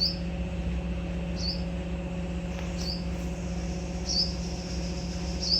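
A bird giving a short, high chirp over and over, evenly spaced about once every second and a half, over a steady low hum.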